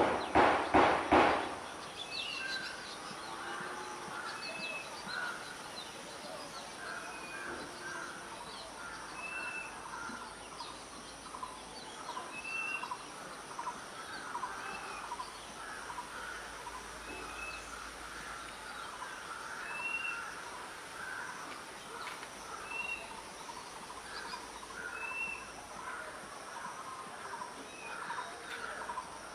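Wild birds calling. A quick run of loud harsh calls comes in the first second and a half. After that, a short whistled note repeats about every two seconds over a steady chatter of smaller chirps.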